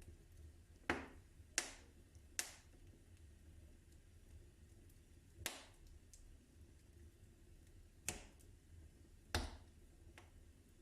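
Wood fire in a fireplace crackling: six sharp pops at irregular intervals, with faint ticks between them, over a low steady hum.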